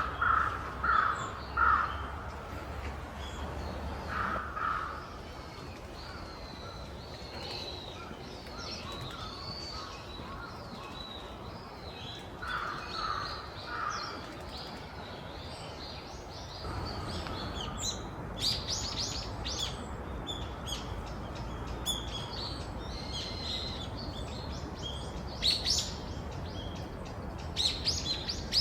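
Wild birds calling: a lower, harsher call repeated three or four times in short runs near the start, around four seconds in and around thirteen seconds in, with thin high calls between. In the second half a busy stretch of quick high chirps takes over, over a steady low background hum.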